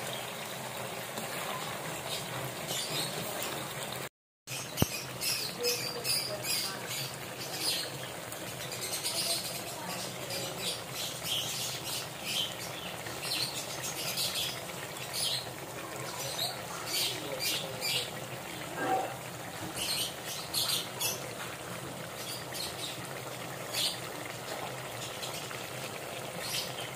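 Small crabs (talangka) deep-frying in a wok of hot oil: a steady sizzle with frequent sharp crackles and pops. The sound drops out briefly about four seconds in.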